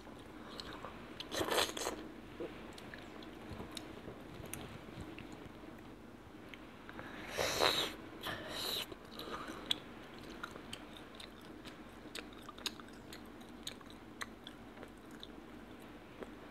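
A child chewing a mouthful of chicken close to a clip-on microphone: soft mouth clicks and small crunches throughout, with a couple of louder bursts about a second and a half in and around the middle.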